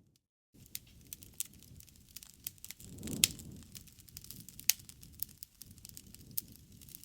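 Wood fire crackling: a dense run of small snaps and pops over a low rumble of flame, with two sharp, loud pops near the middle. A brief half-second gap of silence right at the start.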